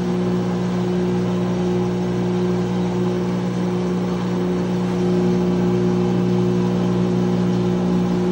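2006 GE Profile top-loading washing machine in its spin, the motor and spinning basket giving a steady hum with a whir. It gets a little louder about five seconds in as the spin picks up speed.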